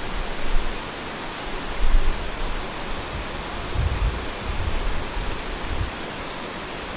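Heavy rain falling steadily as a dense, even hiss, with deep low rumbles swelling up a few times: about half a second in, about two seconds in, and around four seconds.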